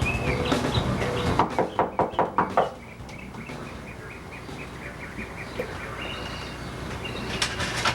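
A quick run of about eight knocks on a door, then a bird chirping a steady series of short high notes, about three a second.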